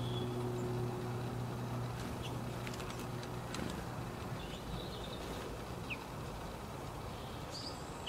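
Faint, short bird chirps scattered over steady outdoor background noise, with a few light clicks about three seconds in.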